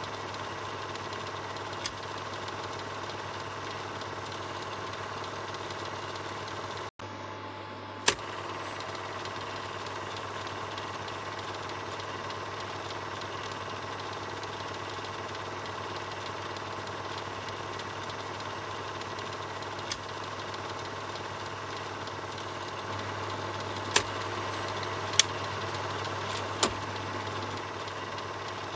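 Film projector running: a steady mechanical whir and fast rattle of the film transport over a low hum. There is a brief drop-out about seven seconds in, and a few sharp clicks near the end.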